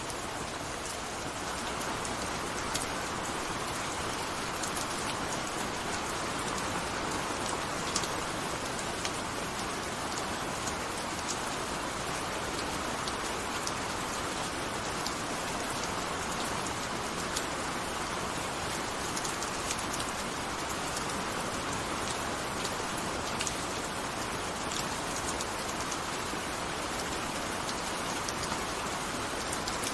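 Steady gentle rain falling, an even hiss with scattered single drops ticking through it.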